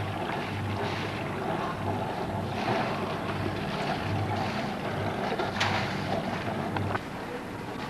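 A boat engine running nearby with a low, pulsing hum that stops about seven seconds in, over wind on the camcorder microphone.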